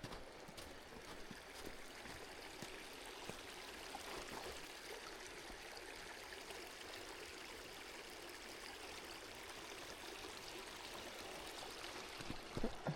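Stream water rushing steadily, with a few thumps near the end.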